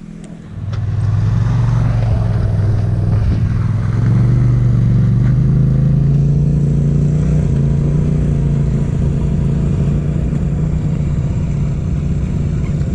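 Adventure motorcycle engine pulling under load on a steep dirt climb, coming in strongly about half a second in and rising a little in pitch around four seconds, then running steady.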